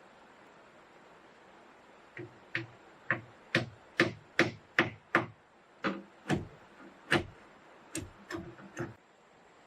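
Wood being struck by a hand tool: about fourteen sharp knocks, roughly two a second, each with a dull low thud, starting about two seconds in and stopping shortly before the end.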